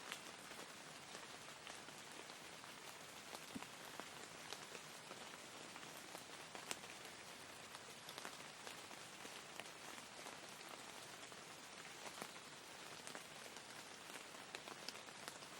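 Soft, steady rain: an even hiss with scattered single drops tapping now and then.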